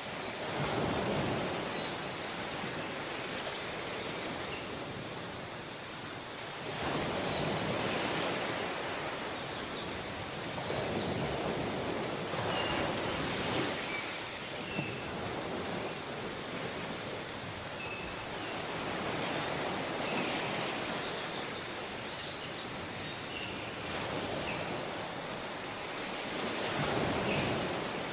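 Sea waves washing onto a tropical beach, the surf swelling and ebbing every few seconds, with scattered faint high chirps over it.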